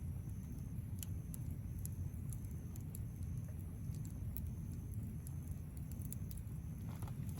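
Wood campfire crackling, with scattered sharp pops and ticks over a steady low rumble.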